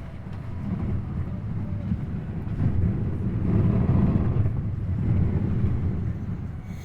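Car driving, a low engine and road rumble that grows louder toward the middle and then eases off.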